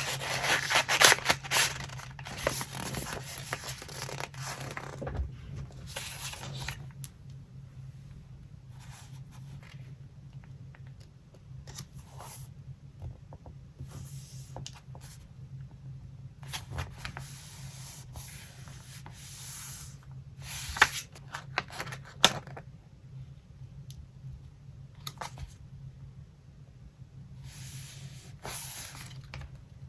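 Paper being handled for a collage: steady rustling and rubbing of paper for the first several seconds, then scattered short rustles and light taps, with two sharp clicks a little past the middle and more rustling near the end. A faint steady low hum lies underneath.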